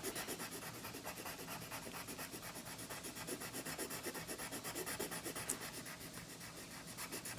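Colored pencil shading on paper: quick, even back-and-forth scratchy strokes, several a second, as an area is filled in with colour.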